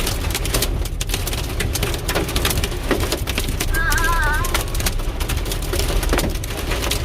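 Thunderstorm downpour: heavy rain and hail hitting hard surfaces as dense rapid clicks, with gusting wind buffeting the microphone as a low rumble. A short wavering tone sounds about four seconds in.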